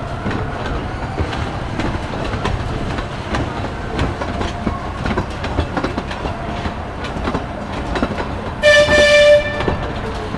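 A small amusement-park train running on its track, wheels rumbling and clicking over the rail joints, with one short horn blast near the end.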